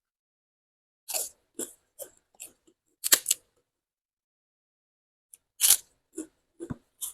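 Raw vegetables crunching as they are bitten and chewed close to the microphone, in short separate crunches with silent gaps between; the loudest come about three seconds in and shortly before six seconds.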